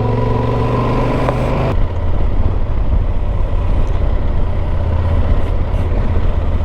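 Motorcycle engine running steadily while riding, with wind and road rumble. About two seconds in the sound changes abruptly from a steady engine note to a rougher, noisier low rumble.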